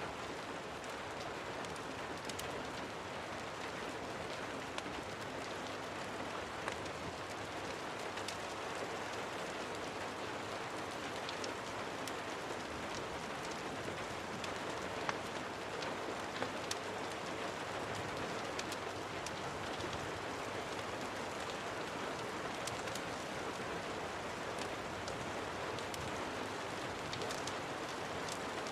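Steady rain falling, an even hiss with scattered sharp ticks and crackles on top.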